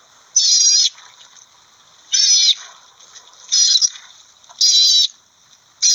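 Otter calling: a series of high-pitched calls, five of them, each about half a second long and spaced a second or more apart.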